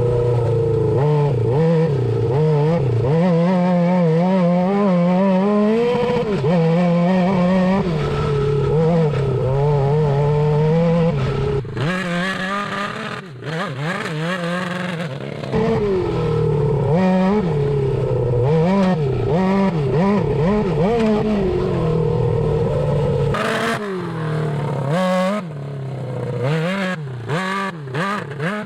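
Suzuki GSX600F inline-four motorcycle engine, swapped into a Honda Odyssey buggy, revving up and down over and over as it is ridden, with a few sudden breaks in the sound.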